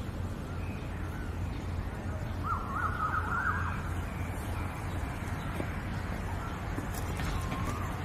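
A bird calls a short run of quick up-and-down notes that rise in pitch, about two and a half seconds in, with a few fainter calls around it, over a steady low background rumble.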